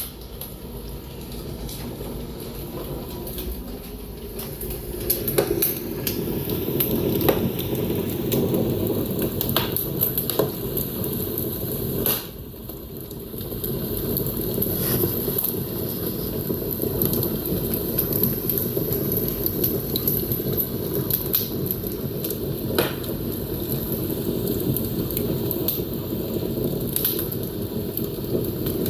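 Wood fire burning in a fireplace: a steady low rush of flames with scattered crackles and pops, dipping briefly about twelve seconds in.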